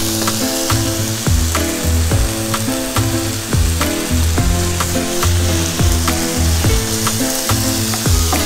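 Chicken, zucchini and onions sizzling in a frying pan, under background music with a steady beat and a bass line.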